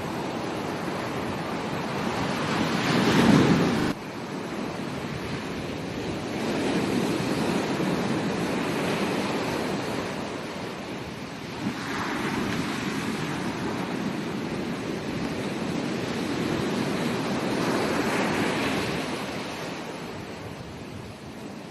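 Ocean waves breaking and washing up a beach, rising and falling in several surges. The loudest surge comes about three seconds in and drops off sharply a moment later.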